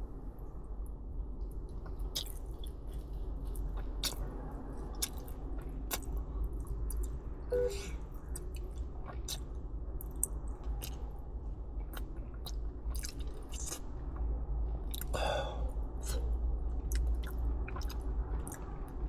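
Close-up chewing of soft, gooey takoyaki (octopus balls): irregular wet mouth clicks and smacks, with a longer noisy mouth sound about fifteen seconds in.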